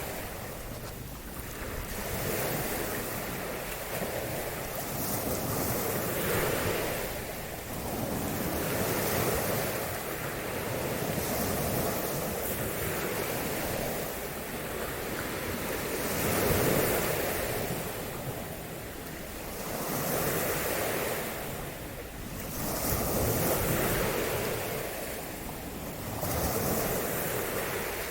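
Waves washing onto a shore, surging and fading every few seconds, with wind rumbling on the microphone.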